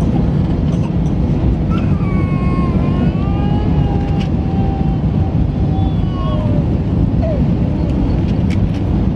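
Steady cabin noise inside an Airbus A319 airliner: a dense, low rumble of engines and airflow. Faint wavering tones rise above it for a few seconds in the middle.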